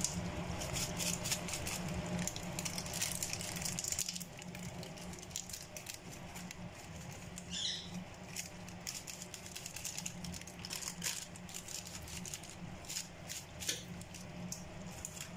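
Chicken and spice masala frying in oil in a pot, crackling with many small scattered pops over a low steady hum. A short high squeak comes about seven and a half seconds in.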